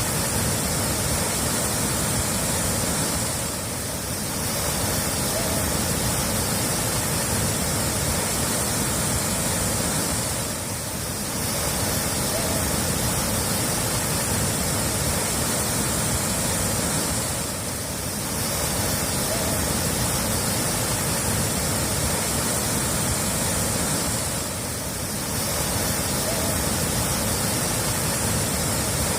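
Steady rushing water with an even hiss, dipping briefly about every seven seconds.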